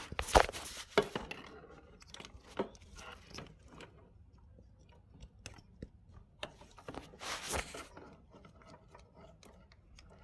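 Scattered small clicks, crackles and rustles of hands working the plastic wiring connectors and wires of a fuel injector harness, with a few sharper clicks in the first second and a longer rustle about seven and a half seconds in.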